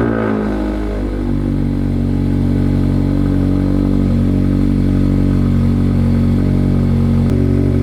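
Mazda MX-5 Miata (ND) four-cylinder engine just after starting: the revs fall from the start-up flare in the first half second, then settle into a steady idle.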